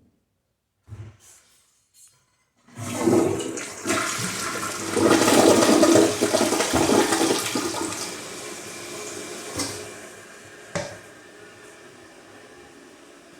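Toto Drake gravity toilet flushing: a couple of faint knocks, then a sudden loud rush of water that peaks and slowly tapers. Two sharp knocks come near the end of the rush, then a quieter steady hiss of the tank refilling.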